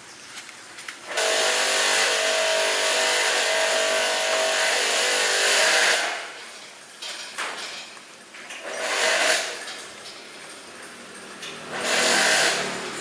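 A power tool running in bursts: one long run of about five seconds, then two shorter bursts.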